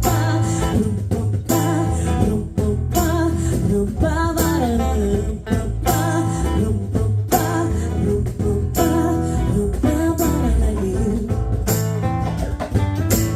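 Live band music: guitar playing over a steady beat, with a woman's voice singing.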